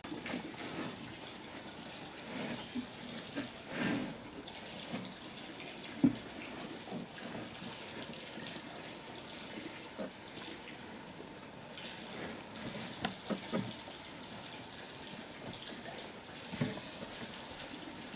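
Water splashing and trickling, broken by a few scattered knocks.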